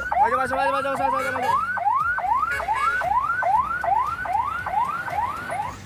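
Toy military police car's electronic siren, a fast rising whoop repeated about two and a half times a second, with a low steady tone under the first second and a half.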